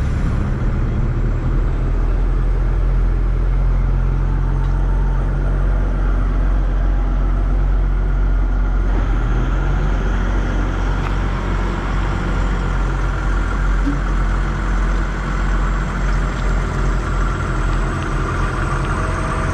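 Motor vehicle engine running steadily, its low note rising in pitch about halfway through as it revs up.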